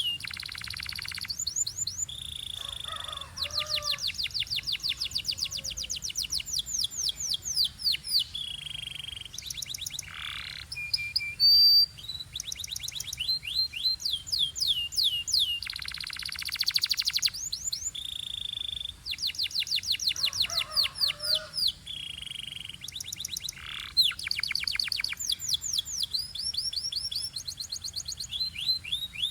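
Canary singing: fast trills of repeated, high, downward-sweeping notes run one after another, broken by short held rolls and brief pauses.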